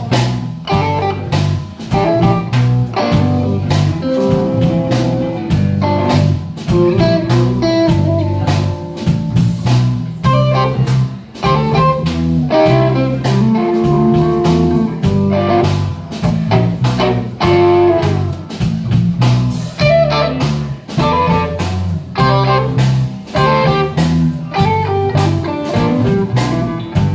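Live blues band playing an instrumental intro: electric guitar lines over bass and a drum kit with a steady beat.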